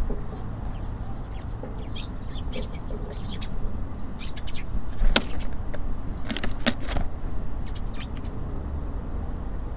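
Small songbirds at a bird feeder giving many short, high chirps, with a few sharp taps around the middle, over a steady low rumble.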